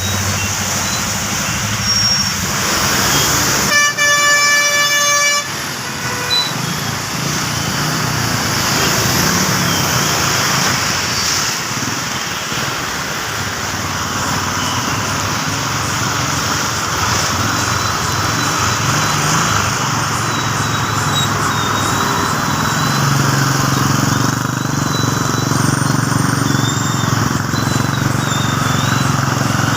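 Steady rain falling, with a vehicle horn honking once for about a second and a half about four seconds in.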